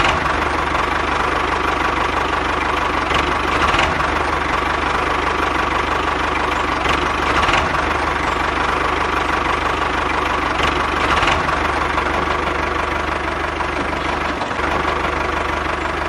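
Small engine of a home-built mini tractor running steadily with a dense, rapid knocking beat.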